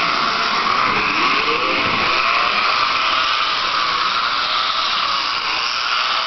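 Small electric motor and gearbox of an HO-scale MDT Plymouth model diesel locomotive running fast with a steady, loud whine, its pitch dipping and rising again about a second in.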